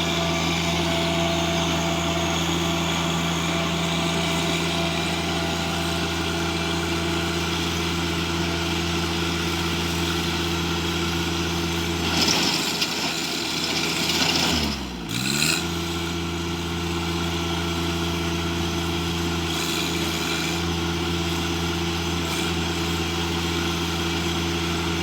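Tractor engine running steadily while tilling hard clay soil. About two-thirds of the way through, the engine pitch drops sharply and then climbs back, as it bogs down under load and recovers.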